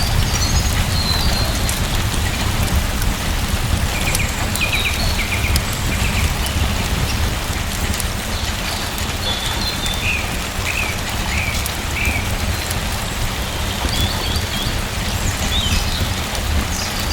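Steady rain falling on surfaces with a deep, even rumble underneath. A few short high chirps come in scattered groups, most around the middle of the stretch.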